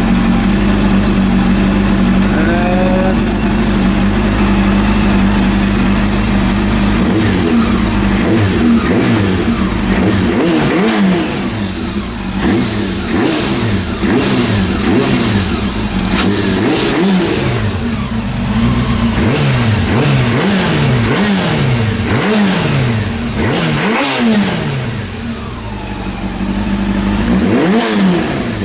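Freshly rebuilt Honda CB400 four-cylinder motorcycle engine idling steadily, then, from about seven seconds in, revved again and again with quick throttle blips, each one rising and falling back to idle. The owner judges it to sound very good.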